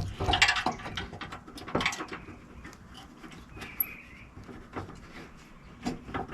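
Irregular light clicks and knocks of hand work on door hardware: an aluminum door being fitted to the frame and its screws and washers started by hand. There are a couple of louder knocks in the first two seconds, then quieter scattered clicks.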